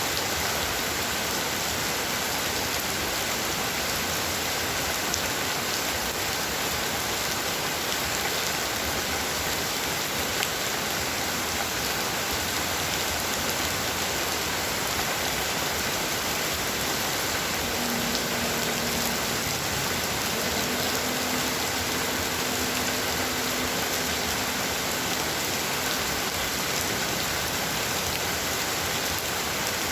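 Heavy rain falling steadily, a dense and even hiss of drops on surfaces.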